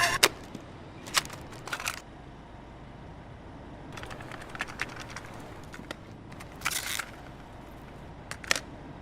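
Quiet background hum with scattered short clicks and brief rustles, a few of them loud and sharp.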